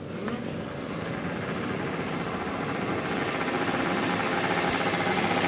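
A motorcycle engine running at a steady pitch, growing steadily louder as it approaches.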